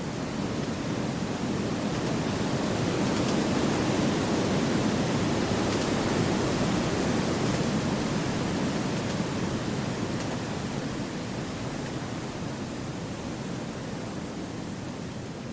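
Wind rushing through forest trees as a steady rush of noise, building to a gust a few seconds in and easing off toward the end.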